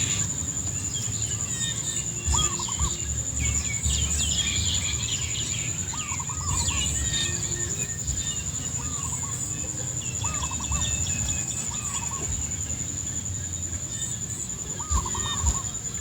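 Birds calling: one gives short quavering calls every few seconds while others chirp higher up, over a steady high-pitched whine and a low rumble.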